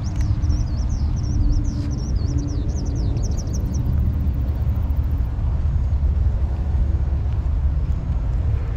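A songbird sings quick, wavering high chirps for the first few seconds, then stops. A steady low rumble runs beneath it throughout.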